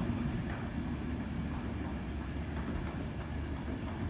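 Low, steady rumble of the departing Enterprise train, hauled by a Class 201 diesel locomotive.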